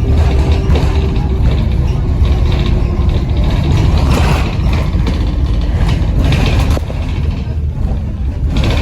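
Bus diesel engine working hard, a loud, steady rumble with hiss over it, from a bus with a bad turbo leak. There are a few short rattles partway through, and the engine eases slightly near the end.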